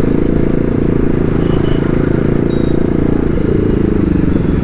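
BMW G310RR's single-cylinder engine running under way at low road speed, a steady engine note whose pitch shifts about three seconds in as the throttle changes.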